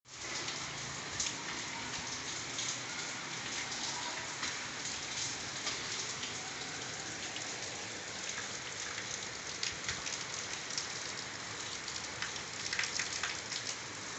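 Steady rain falling on a concrete rooftop: an even hiss of drops with scattered close ticks and splats from drops landing near the microphone.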